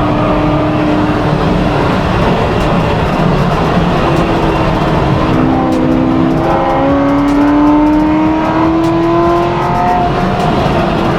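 The V8 of a modified 840-horsepower Corvette C7 running under way. From about four seconds in, its note climbs steadily in pitch as the car accelerates.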